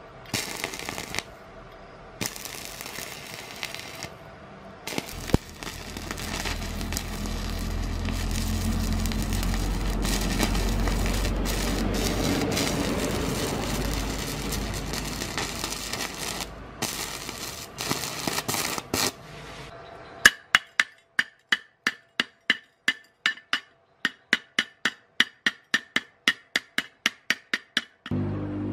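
Crackling, hissing spurts of an electric welding arc from a homemade welder made from an old fan motor, with a swelling low hum in the middle. Then, from about two-thirds of the way in, a steady run of about twenty sharp ringing metal taps, two or three a second, as of a hammer chipping at the weld.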